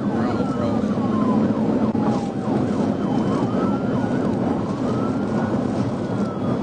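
Police car siren sounding a slow wail, its pitch rising and falling twice, over steady road and engine noise.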